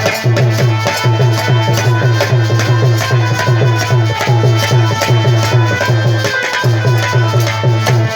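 Instrumental interlude of Indian folk devotional music: a hand drum plays a quick, steadily repeating rhythm of low strokes that bend in pitch, over steady held notes from a melody instrument.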